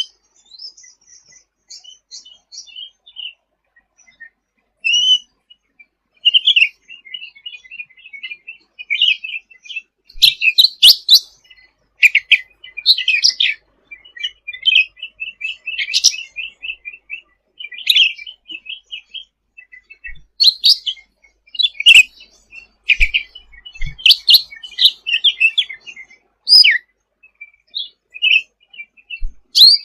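Cucak ranting (cucak rante) singing in full voice, a rapid chattering mix of trills and sharp, high chirps. It grows louder and busier from about ten seconds in.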